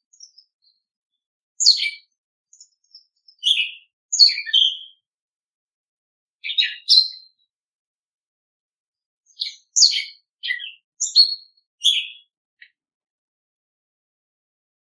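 Small songbirds chirping, short high calls in little clusters every couple of seconds with pauses between them, stopping near the end.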